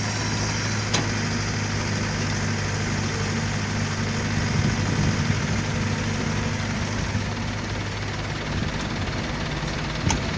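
Heavy diesel engine of a truck or excavator running steadily at idle, with a sharp click about a second in.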